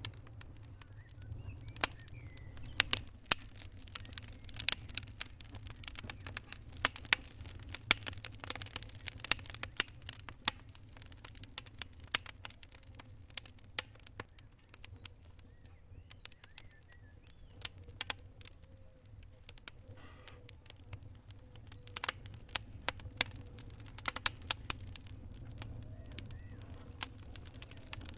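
Fire crackling, with irregular sharp pops and snaps over a low steady rumble; the pops come thick and fast in two stretches and thin out in the middle.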